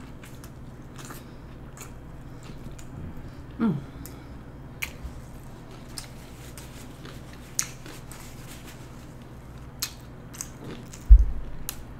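Close-miked chewing of a mouthful of veggie burger, with scattered wet mouth clicks and lip smacks. About four seconds in there is a short hum that falls in pitch, and near the end a low thump.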